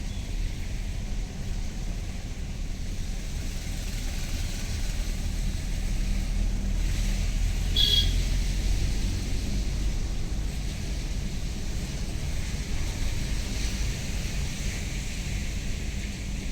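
Road noise inside a moving car: a steady low rumble of engine and tyres. A brief high-pitched beep comes about eight seconds in.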